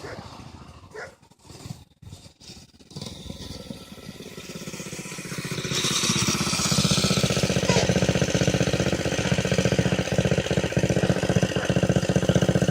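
Small engine of a homemade off-road vehicle, faint and patchy at first, growing louder from about three seconds in and running loud and steady with an even pulsing beat from about six seconds in.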